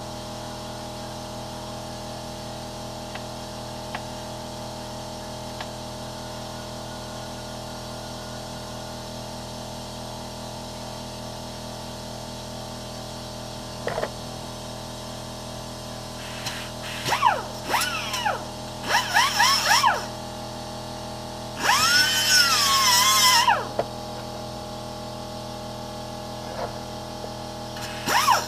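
Background music throughout. About halfway in, a cutting wheel starts whining in a few short bursts, its pitch dipping and recovering as it bites into rusted sheet steel.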